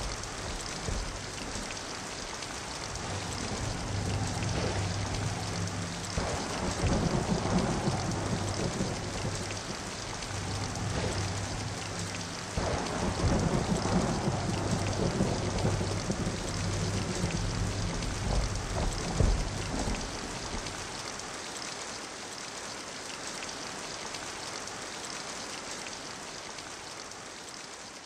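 Storm sound effect: heavy rain falling steadily, with three long rolls of thunder. The thunder stops about three-quarters of the way through, and the rain eases toward the end.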